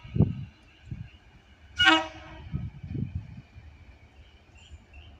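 Train horn giving one short toot about two seconds in, at the same pitch as the long blast just before, with a few low thuds around it.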